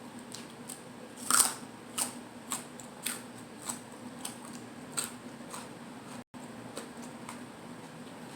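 Close-up eating of a lettuce-wrapped salad roll: one loud crisp bite about a second in, then crunchy chewing with a crunch about every half second.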